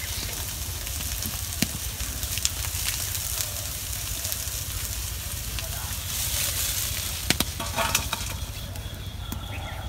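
Soybean chunks sizzling steadily in hot oil in an iron kadai, nearly done frying. About seven seconds in, a few sharp clinks as the fried chunks are tipped out of the pan into a steel bowl.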